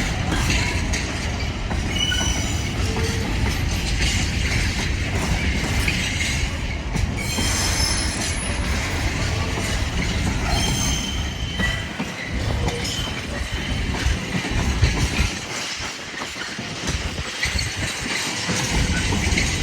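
A train running along the track with a continuous rumble, and short, high-pitched wheel squeals coming and going.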